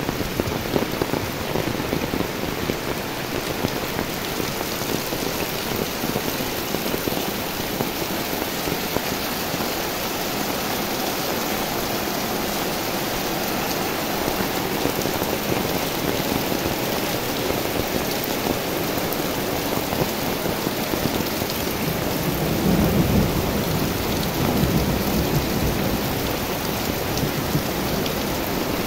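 Steady rain falling. Late on, a low rumble of thunder rolls for a few seconds.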